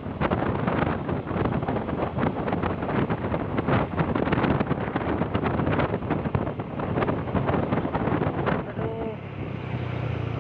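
Wind buffeting the microphone on a moving motorcycle, with the engine running underneath. Near the end the wind noise drops and a steady low engine hum comes through as the bike slows.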